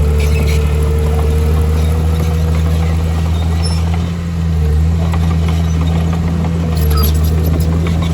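Heavy diesel engine of earthmoving machinery running steadily, with a short dip in level about four seconds in and a few faint clicks near the end.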